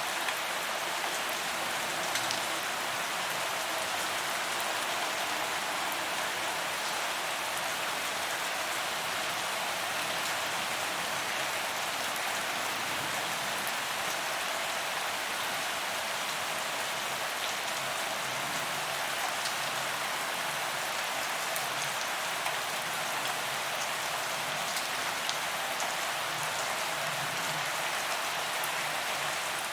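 Steady rain falling on a paved sidewalk, a dense even hiss of drops with scattered sharper drop ticks.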